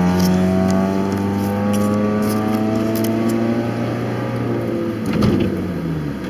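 Car engine with no muffler on its exhaust, heard from inside the cabin, pulling under acceleration with its note climbing steadily. About five seconds in there is a brief louder burst and the note then falls away.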